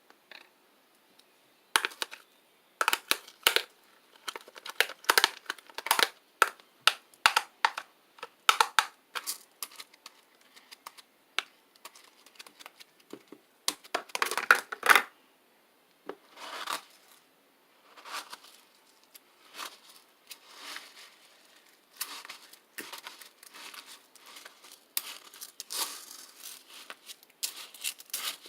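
Slime being squeezed and worked by hand, making irregular runs of sharp crackling pops and clicks with short pauses between them.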